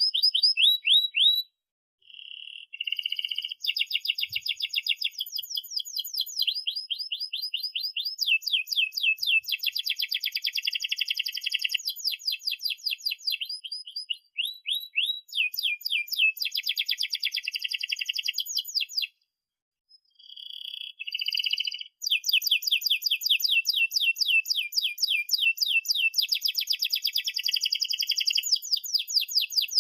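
Domestic canary singing a long rolling song of fast repeated trilled notes, phrase after phrase. It breaks off briefly about two seconds in and again near twenty seconds.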